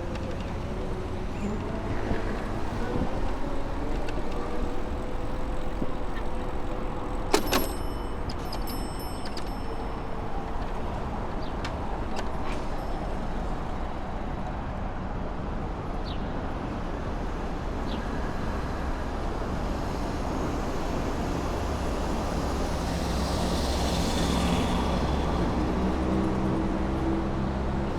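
City street traffic heard from a moving bicycle: a steady rumble of cars and trucks. About a quarter of the way in comes a sharp metallic clank that rings on for a couple of seconds. Near the end a hiss rises over a steady low engine hum.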